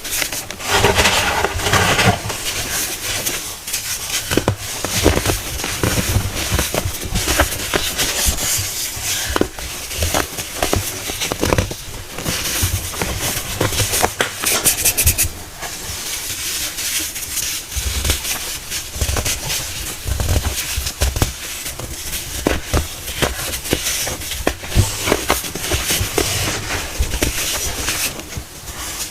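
Pressed baking soda cones being crushed and crumbled, a dense run of crisp crunches and crackles over a powdery hiss.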